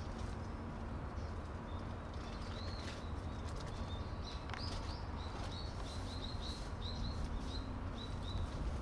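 A small bird chirping, a run of short high chirps that come quickly in the second half, over a steady low outdoor rumble with a faint hum.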